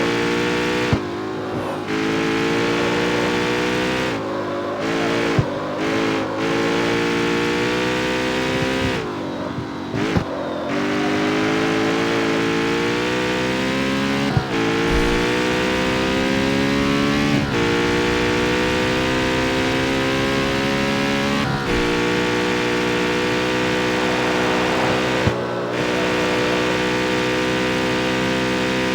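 Jaguar F-Type's supercharged 5.0-litre V8 pulling through the gears: the engine note climbs slowly, then drops sharply at each of about seven upshifts. Several of the shifts bring a short sharp crack from the exhaust.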